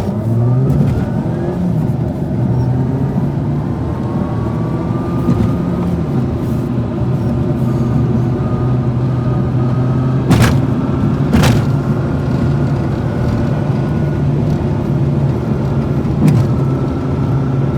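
A motor vehicle's engine running steadily while driving, as a low, even hum. Two sharp knocks come about a second apart, a little past the middle.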